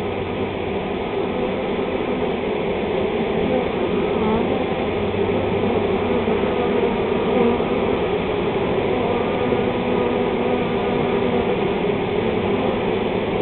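A honey bee swarm buzzing: a loud, steady hum of many wings.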